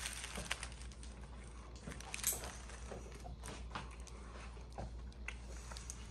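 Someone chewing a bite of coxinha with thin, crispy fried dough: faint scattered crunches and small clicks, with one louder crackle about two seconds in.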